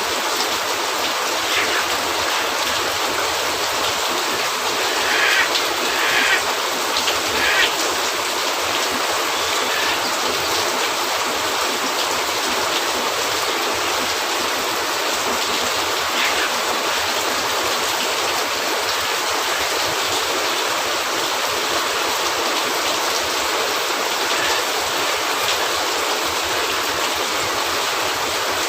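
Steady rain making an even hiss on a cabin roof, with a few short pops from a fireplace fire, clustered about five to eight seconds in.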